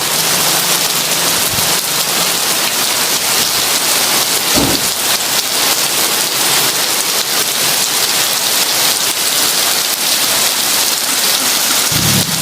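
Heavy rain falling steadily as a dense hiss. There is a brief low thump about four and a half seconds in, and a low rumble starts just before the end.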